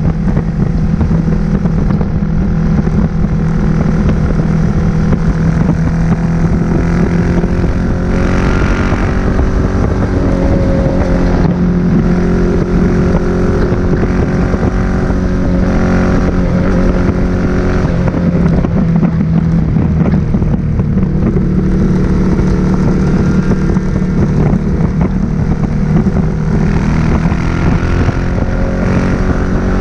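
Suzuki SV1000S V-twin with an aftermarket Leo Vince exhaust running at a steady cruising speed, its revs rising and easing off slightly a few times, with wind rushing over the microphone.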